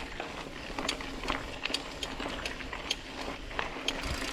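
Mountain bike rattling over a rocky trail: irregular sharp clicks and knocks over a steady rumble of riding noise.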